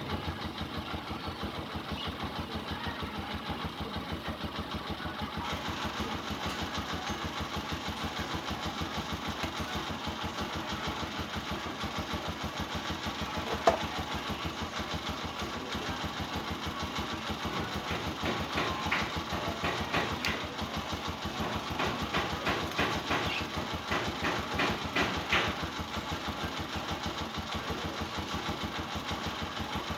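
Honda TMX 125's single-cylinder four-stroke engine idling steadily, left running to put some charge back into the battery. A sharp click comes about 14 seconds in, and there are scattered clicks and rattles from parts being handled between about 18 and 26 seconds.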